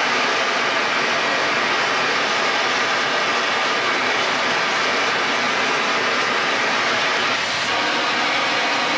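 Oxy-fuel cutting torch on a CNC table cutting through thick steel plate, a loud, steady hiss of the cutting jet.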